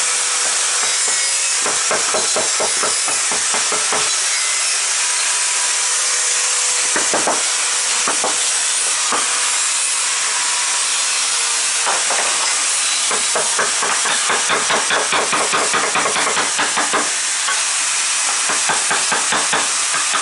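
Mallet tapping a carving chisel into wood in quick runs of light taps separated by pauses, over a steady background hiss.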